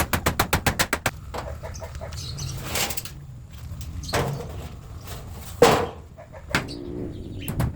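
Poultry in a coop: a fast run of clicks, about nine a second, in the first second, then three short rushing flurries, the loudest about two thirds of the way through, that fit wings flapping.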